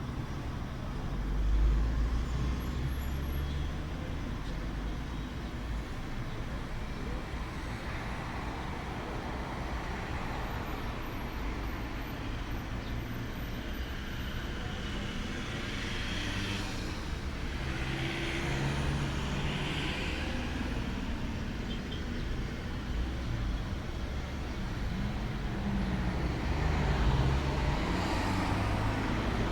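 Outdoor ambience: a steady low rumble under a noisy haze, swelling a little about halfway through and again near the end, with a few faint high chirps early on.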